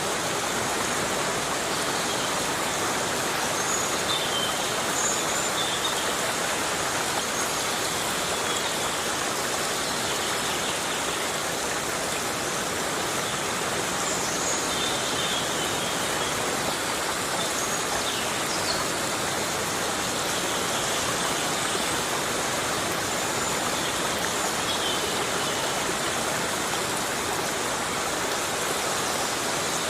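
Heavy rain falling steadily in a rainforest, an even hiss with no breaks. A few short, high chirps come through now and then.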